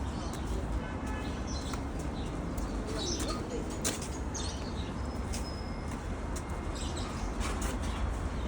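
Small birds chirping in many short, scattered calls over a steady low background hum.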